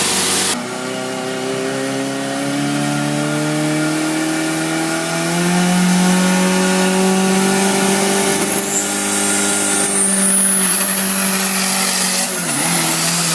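Large turbocharged engine revving, its pitch climbing steadily over the first few seconds and then holding at high revs. A thin high whistle rises and holds in the second half, and the engine note dips briefly near the end.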